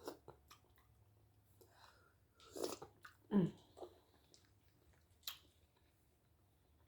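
A person chewing mussels, with quiet wet mouth sounds and faint clicks. Two louder smacks come about two and a half and three and a half seconds in, and a sharp click a little after five seconds.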